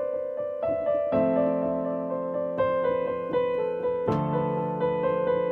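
Piano playing a finger exercise: the right hand plays a quick, even run of single notes while the left hand holds chords underneath, changing chord about a second in and again about four seconds in.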